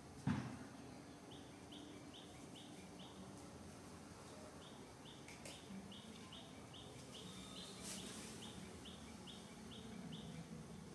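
A bird chirping in quick series of short, slightly rising notes, about three a second, in two runs, the second starting about four and a half seconds in. A dull thump just after the start is the loudest sound.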